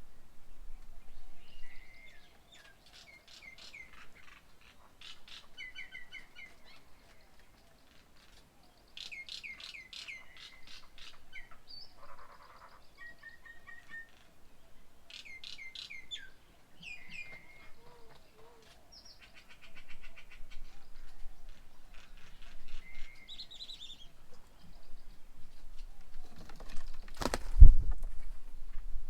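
Several birds chirping and calling around a bird table, with bursts of quick falling notes. A single sharp thump near the end is the loudest sound.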